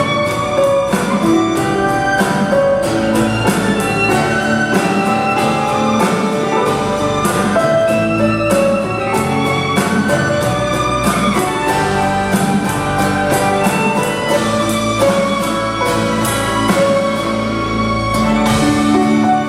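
Live rock-pop band playing an instrumental passage: sustained melody notes over a steady drum beat, with a bowed string instrument, likely violin, in the mix.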